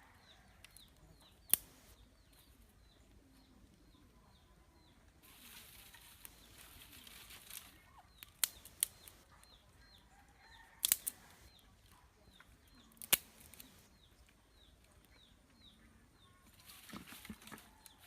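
A chicken clucking and flapping its wings, with a few sharp knocks and two stretches of rustling. A high chirp repeats steadily, about three times a second, in the background.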